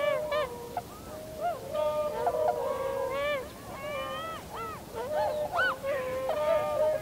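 A flock of tundra swans calling together: many overlapping honking and bugling calls, some held level and some rising and falling in pitch, continuing without pause.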